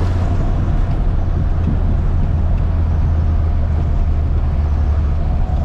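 1975 Ford Escort Mk1's four-cylinder engine with twin Weber carburettors running steadily while the car is driven.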